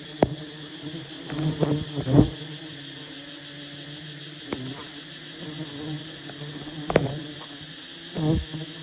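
Honeybees buzzing steadily around a wild hive, over a constant high insect trill. Several sharp knocks cut through, the loudest just after the start, about two seconds in and about seven seconds in.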